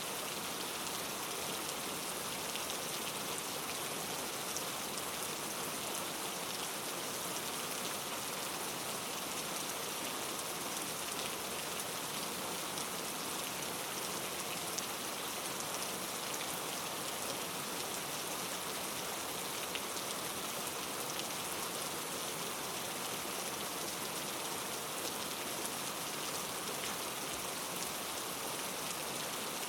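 Steady rain falling, an even hiss with fine drop patter and no thunder.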